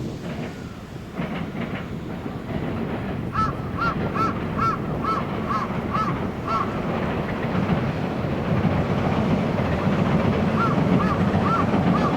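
Rumble of an approaching electric train, growing steadily louder. Over it, a bird calls in two quick runs of short, repeated calls, about three a second.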